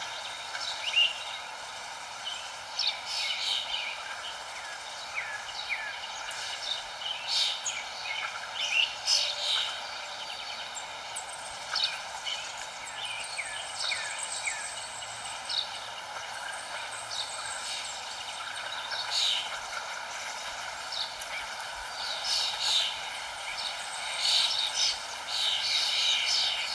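Several birds chirping and calling in short, quick notes, busiest near the end, over a steady background hiss.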